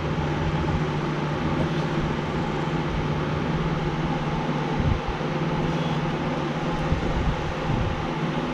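Steady low mechanical hum under a constant hiss, with a few faint knocks.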